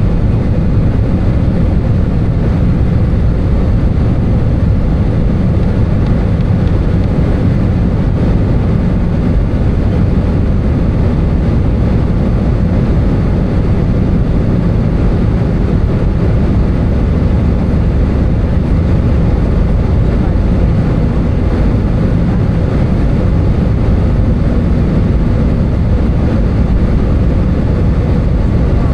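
Steady roar of an Airbus A320 in flight, heard inside the passenger cabin from a window seat: the jet engines and the rush of air along the fuselage, even and unbroken.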